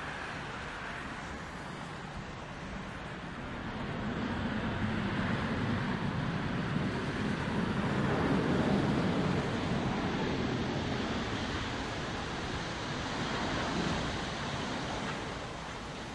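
Boeing 777-200 jet engine roar as the airliner lands, swelling to a peak about halfway through and then easing off, mixed with gusty wind buffeting the microphone.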